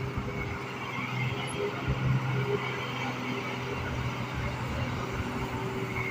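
Diesel engine of a Hino FM1J truck loaded with cement, running steadily with a low hum under load.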